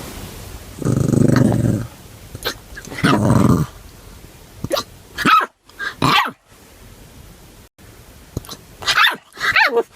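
A puppy growling low twice, then making a string of short, high squeaks that glide in pitch.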